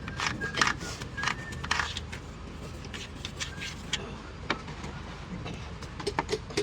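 Metal striking metal: several sharp clanks with a brief ring in the first two seconds, scattered clicks, then a quick run of even taps near the end, from hand tools working on transmission and flywheel parts.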